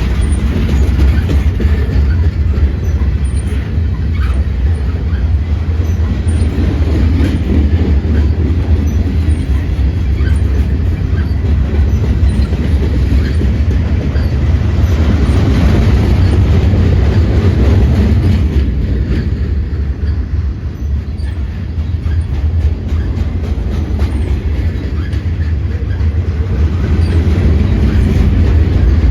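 Norfolk Southern freight train's pipe-loaded cars rolling past: a loud, steady rumble of steel wheels on rail.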